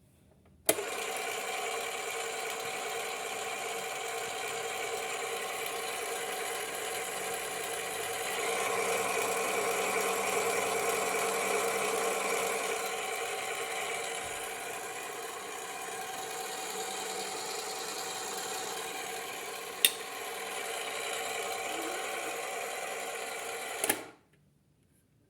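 Mandy Piko toy washing machine's small electric motor running steadily with a whir. It starts suddenly with a click about a second in and cuts off abruptly near the end, with one sharp click a few seconds before it stops.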